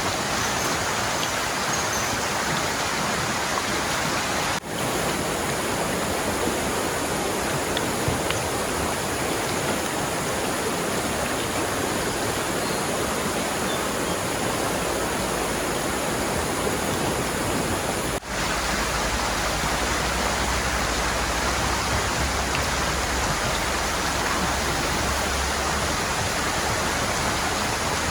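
Steady loud rush of a swollen, fast-flowing river in flood, briefly dropping out twice.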